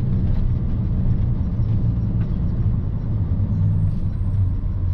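Box truck running down the road, heard from inside the cab: a steady low engine drone and road rumble.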